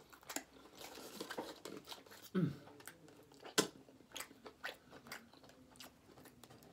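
Close-miked chewing of a cheesy burrito: wet mouth clicks and smacks throughout. A short hum falling in pitch comes about two and a half seconds in, and a sharp click about a second later.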